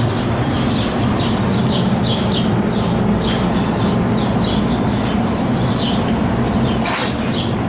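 A train rumbling steadily along the track, with a string of short high chirps over it, two or three a second.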